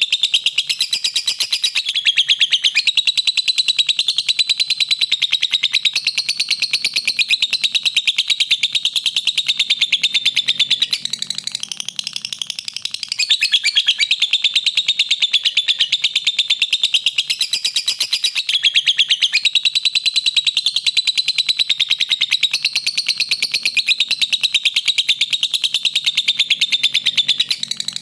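Lovebird singing a long, rapid chatter of high chirps, easing off briefly about halfway through and then carrying on.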